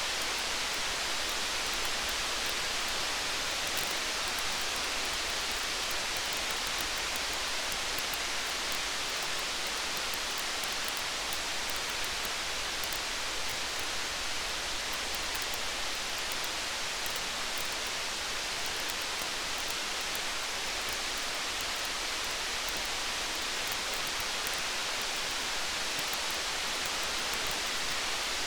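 Steady, even hiss of rain, with faint scattered high crackles of a campfire.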